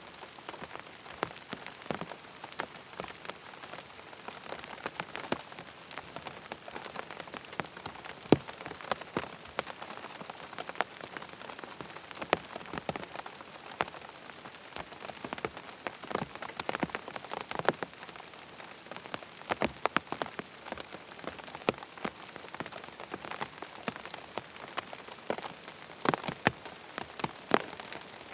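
Steady rain falling, with many sharp, close drop hits scattered through it.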